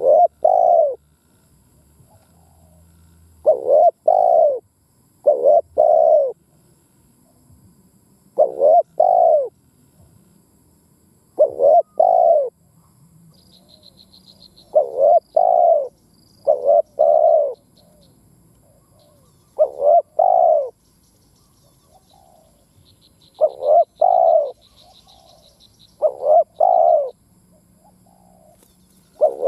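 Spotted dove cooing: short phrases of two or three low coos, repeated every few seconds. Faint high chirps from a small bird come about halfway through and again near the end.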